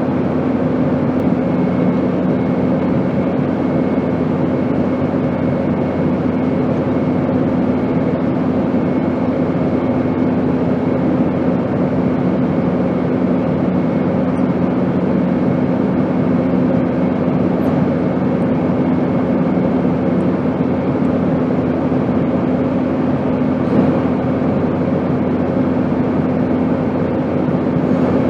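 Airplane engine noise: a steady, even rush with a constant low hum running underneath.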